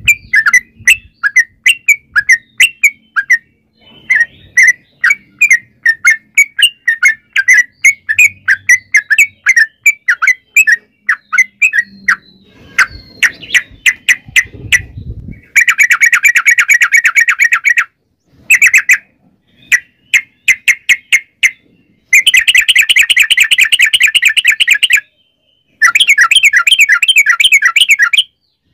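Yellow-vented bulbul (trucukan) singing: a string of short chirping notes a few per second, then from about halfway long rapid trills in runs of a few seconds with short breaks between them.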